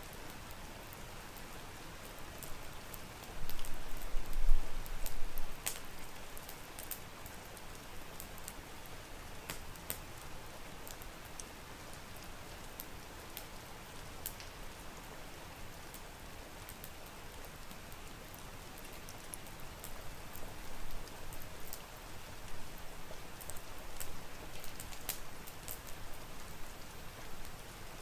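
Steady rain with scattered sharp ticks, with a short, louder, deep rumble about four seconds in.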